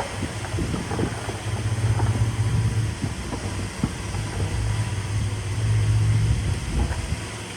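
Diesel engine of earthmoving machinery running steadily, with scattered short clanks and knocks over the engine hum.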